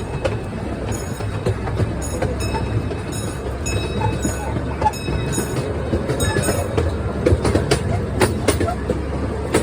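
Small amusement-park train running: a steady low rumble with irregular clicks and clacks from the wheels on the track.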